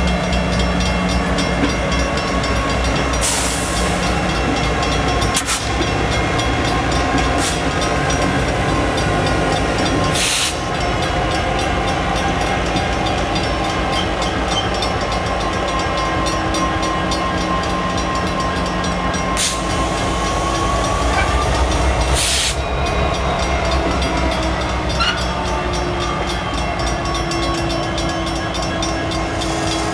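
A slow-moving train rolling past at close range: the steady low running of a diesel locomotive's engine under the noise of the cars' wheels on the rails, with a few sharp knocks scattered through.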